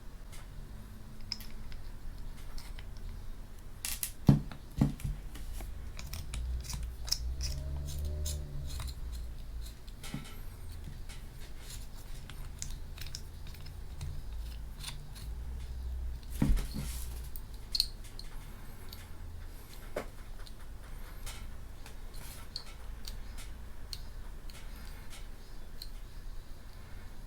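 Handling noises of small hard objects: scattered clicks and light knocks, with two sharper knocks about four and sixteen seconds in.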